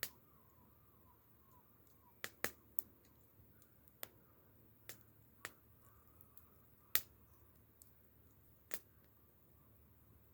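Wood fire crackling: sharp pops and snaps from burning firewood at irregular intervals, about ten in all, the loudest about seven seconds in, over a quiet background.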